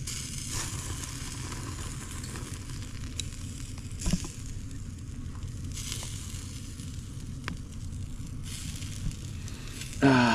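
Campfire burning with a steady sizzling hiss and a couple of sharp pops.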